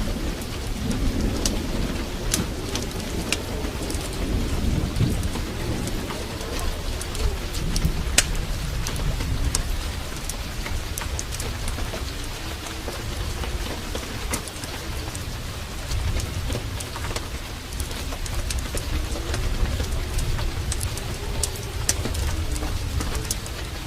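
Heavy rain pouring steadily, with a deep low rumble underneath and scattered sharp crackles and drips.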